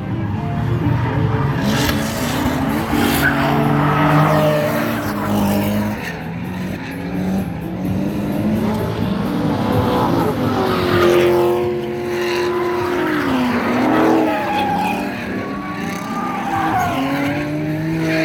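Drift cars sliding around the track: engines revving hard with tires squealing. The engine pitch rises and falls, dipping and climbing again about two-thirds of the way through.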